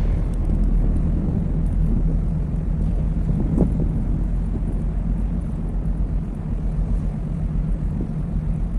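Low, steady engine rumble from a large container ship under way, with a throbbing hum in the bass, and wind buffeting the microphone.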